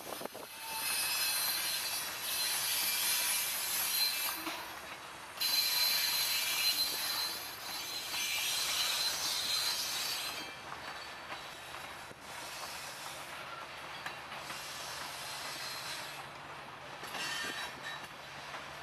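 Covered hopper cars of a long freight train rolling past, their wheels squealing loudly against the rails. The squeal drops away about ten seconds in, leaving the quieter rolling of the cars.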